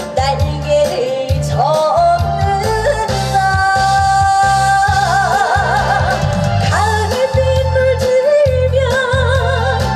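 Woman singing a trot song live over a backing track with a steady bass beat, holding long notes with wide vibrato.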